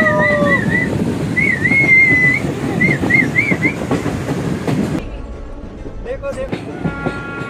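Train running along the rails, a dense rumble with rail clatter, with a high wavering whistle-like tone over it for the first few seconds. About five seconds in the sound drops away sharply.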